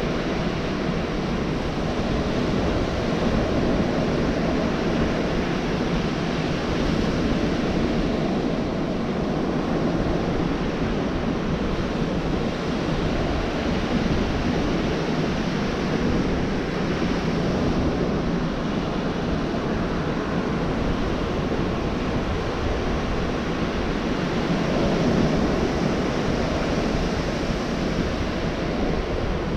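Gulf of Mexico surf breaking and washing on a beach: a continuous low rush of waves that swells a little near the end.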